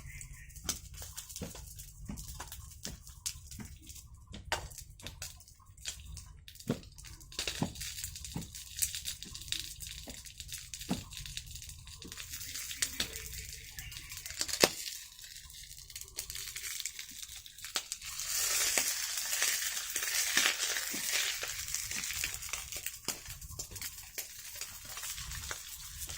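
Camp cooking sounds: scattered sharp clicks and knocks, with a stretch of loud hissing about two-thirds of the way through, like food sizzling in a pan.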